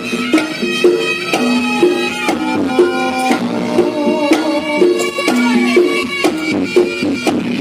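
Reog Ponorogo gamelan music: a reedy slompret (trompet reog) melody wavering over kendang drum strokes and short held tones from tuned gongs.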